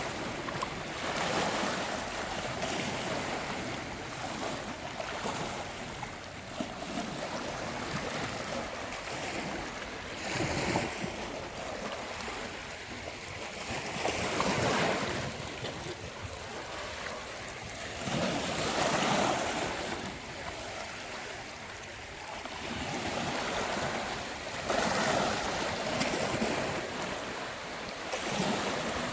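Ocean waves breaking on a beach. The surf runs as a steady wash that swells into louder breakers every few seconds.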